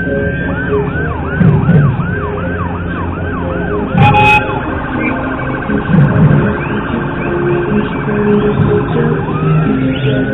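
Emergency vehicle siren cycling through its modes. A rising wail gives way to a fast yelp at about three sweeps a second, then a rapid warble, and a new wail rises near the end. A short, loud horn-like blast comes about four seconds in.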